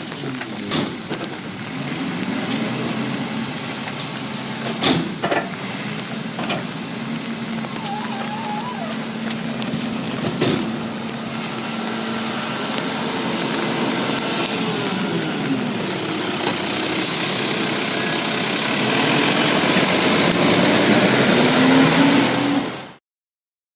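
Garbage truck engine running with a high whine that shifts in pitch, and a couple of sharp knocks. It grows louder over the last several seconds, then cuts off abruptly.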